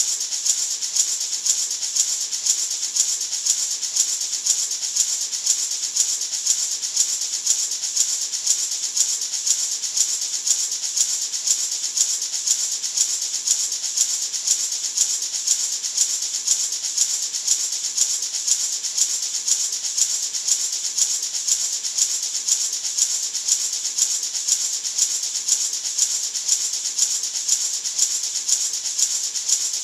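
A gourd maraca (hand shaker) shaken continuously in a steady, even rhythm, making a bright, hissing rattle of seeds against the shell.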